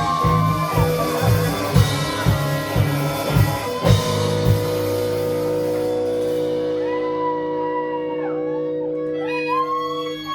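Live rock band playing: drums and bass pound for the first few seconds, then the band holds a ringing chord while a guitar plays bending lead notes over it, before all stops sharply at the very end.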